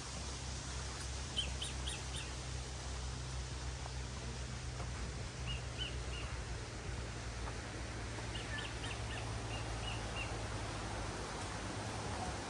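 Small birds chirping in short runs of quick high notes, three times, over a steady low rumble of outdoor background noise.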